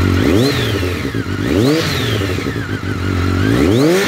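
2006 BMW K1200R's 1200cc inline-four engine idling, revved three times; each rev rises in pitch and drops back to idle, the last one near the end.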